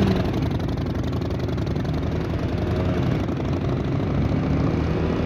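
Motorcycle engine idling at low revs with an even, steady pulsing.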